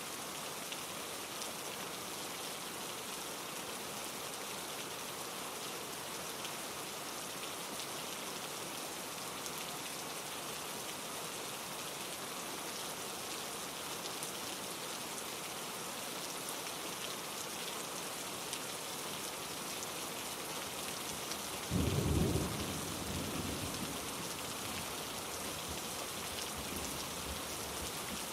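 Steady rain with a mountain stream rushing over rocks. About three-quarters of the way through, a sudden low clap of thunder rumbles away over a few seconds.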